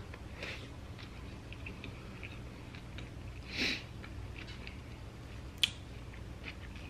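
A person chewing a mouthful of cheeseburger with the mouth closed, with faint, soft wet mouth noises. A brief rush of noise comes about halfway through, and one sharp click near the end.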